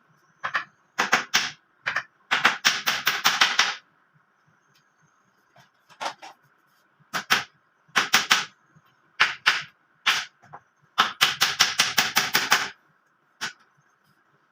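Hammer driving nails into a wooden cage frame: sharp blows in quick runs of several strikes a second, with short pauses between the runs.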